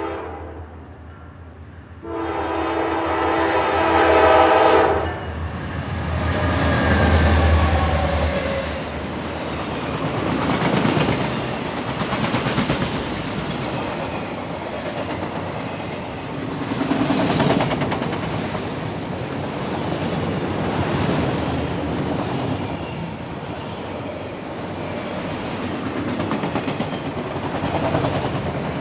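Norfolk Southern freight train led by a GE Dash 9-40CW passing: a short horn blast, then a longer one of about three seconds, with the diesel locomotives' engines rumbling by. Then the freight cars roll past, wheels clicking over the rail joints in a steady rhythm.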